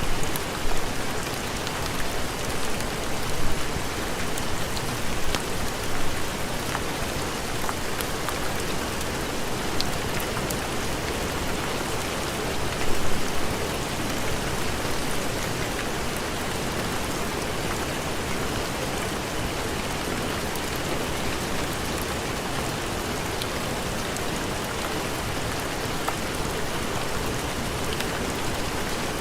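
Heavy rain falling steadily, a dense even hiss of drops, with a few brief louder swells in the first several seconds and again about thirteen seconds in.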